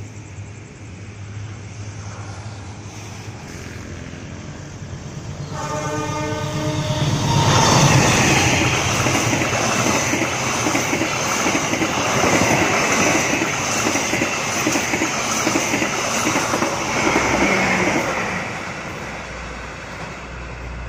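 A passenger train sounds a horn for about two seconds, then rushes past at speed with loud wheel and rail noise and a rhythmic clatter of wheels over the rail joints, which dies away near the end.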